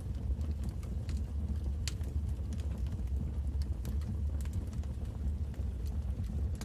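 Wood fire crackling in a fireplace: scattered sharp pops and snaps, a louder one about two seconds in, over a steady low rumble of the burning fire.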